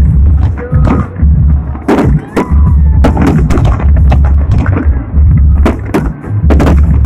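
Fireworks bursting in a steady run of sharp bangs, several close together at times, over loud music with a heavy bass beat.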